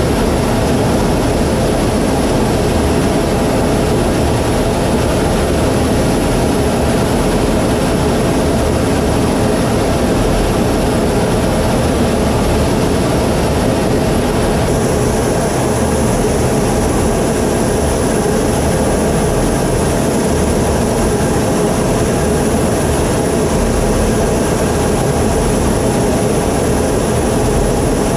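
F-15EX Eagle II's twin jet engines running steadily, a loud even rush with a thin high whine. The high whine drops a little about halfway through.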